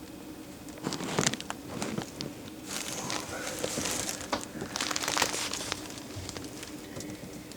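Rustling and crinkling handling noise in a few short spells, with scattered clicks and knocks.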